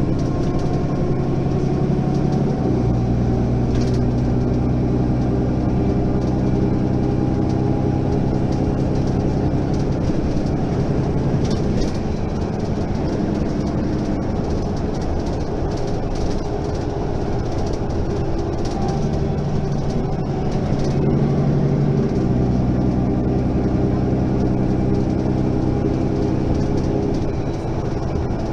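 Mercedes-Benz Citaro facelift city bus's diesel engine running under way, its steady note stepping to a new pitch about three seconds in and again twice near the two-thirds mark, as the automatic gearbox changes gear.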